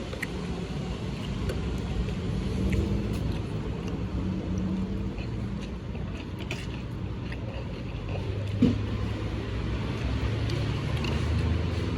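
Steady low hum of a motor vehicle's engine running, with scattered light clicks and a single sharper knock a little past the middle.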